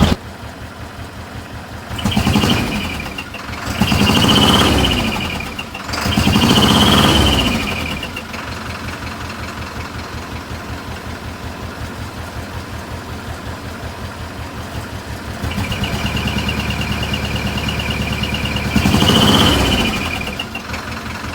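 Mitsubishi truck's diesel engine idling with a fast, even firing pulse, revved four times: three blips close together in the first eight seconds and one more near the end, each rising and falling back to idle.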